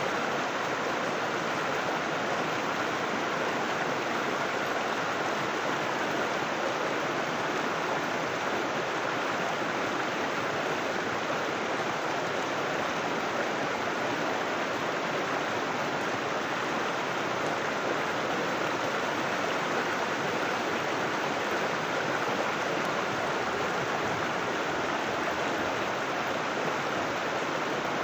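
River water rushing and burbling steadily over rocks, an even, unbroken flow.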